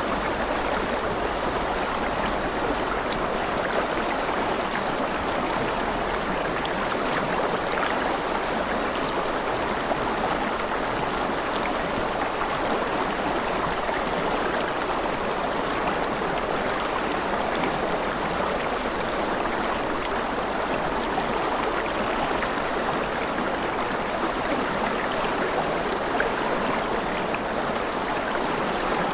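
River water rushing and gurgling over rocks in a steady, even wash.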